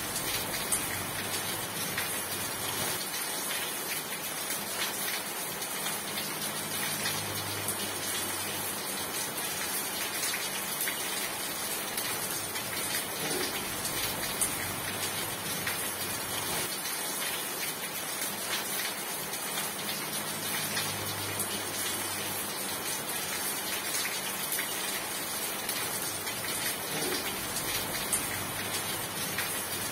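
Steady rain falling, a dense even hiss dotted with many sharp individual drop ticks on a surface.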